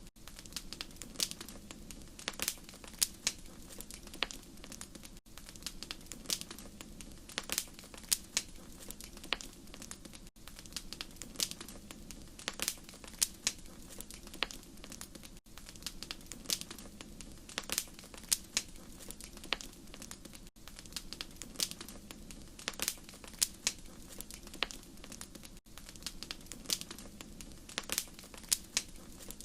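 Wood fire crackling: irregular sharp pops and snaps over a steady low hiss. The same few seconds of crackle repeat in a loop about every five seconds, with a short drop in level at each seam.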